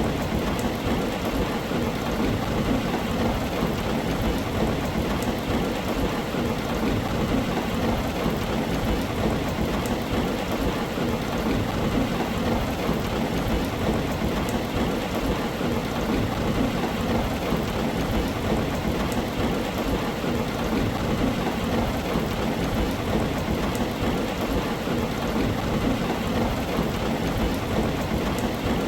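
Steady heavy rain drumming on a tin roof: a dense, even wash of drops with a constant deep rumble underneath.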